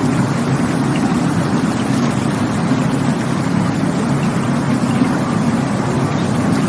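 Rushing water of a stream, a steady, even rush, deep in tone, that never breaks or changes.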